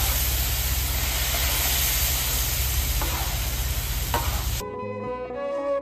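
Spiced chicken frying loudly in a large round pan over an open wood fire, sizzling steadily as it is stirred with a metal ladle, with a few faint knocks. About four and a half seconds in, the sizzle cuts off abruptly and instrumental music begins.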